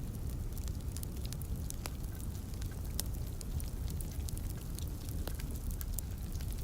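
Wood fire crackling with scattered sharp pops, over a steady low rumble and light rain.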